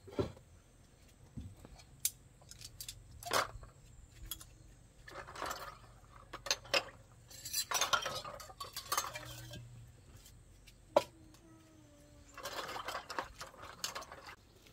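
Dishes, pots and metal utensils clinking and knocking irregularly as they are handled, a few strikes leaving a brief ring.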